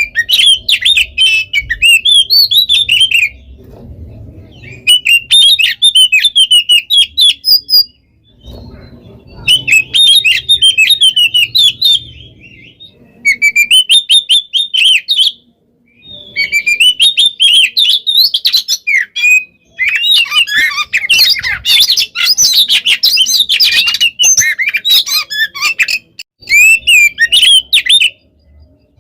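Oriental magpie-robin (kacer) singing loud, rapid phrases of sharp varied whistles and trills, with short pauses between phrases and a long, dense run in the second half.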